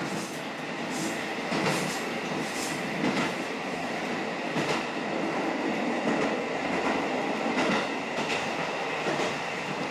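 KiHa 54 diesel railcar running along the line, heard from inside the passenger cabin: a steady running noise with a faint steady whine and an irregular clicking of the wheels over rail joints.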